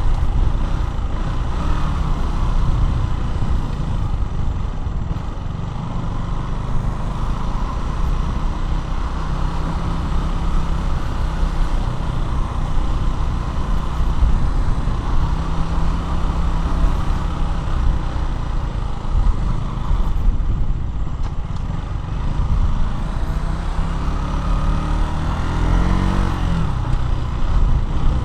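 KTM Duke 200's single-cylinder four-stroke engine running steadily while riding, under a heavy low rumble of wind noise. Near the end the engine's pitch sweeps as the revs change.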